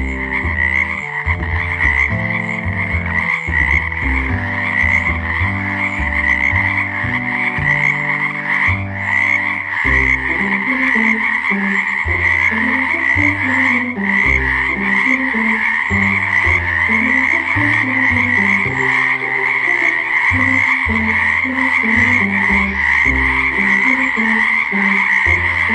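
A dense chorus of many frogs calling without a break, a steady high trilling din, with a low melodic music track running under it.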